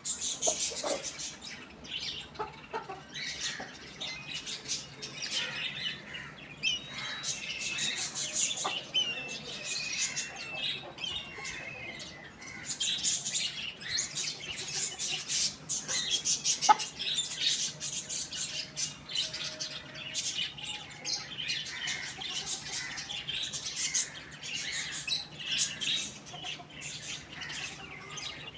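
Dense, continuous chirping and twittering of many small birds, with quick rising and falling calls.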